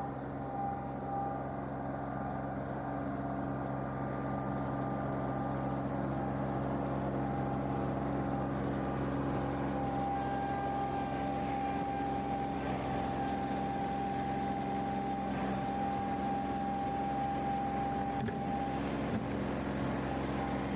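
John Deere 2038R compact tractor's three-cylinder diesel engine running steadily, with a thin high whine joining about halfway through and stopping near the end.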